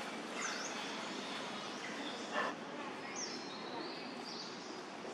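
Outdoor forest ambience: a steady background hiss with a few short, high chirps from a bird, repeated several times. A brief sharp sound stands out about two and a half seconds in.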